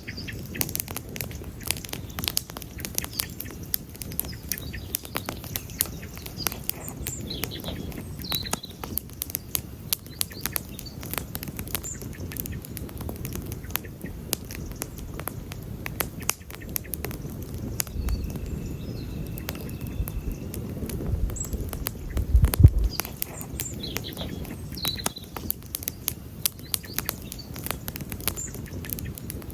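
Campfire crackling and popping steadily over a low rumble of burning wood, with one heavier pop about three-quarters through. Birds chirp faintly now and then.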